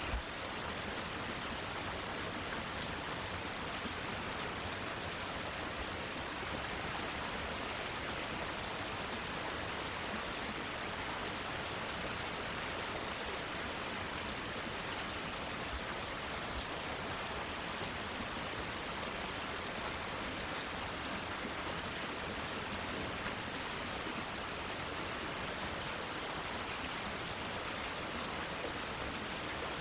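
Steady rain falling, an even hiss with no change in strength. A brief low thump comes right at the start.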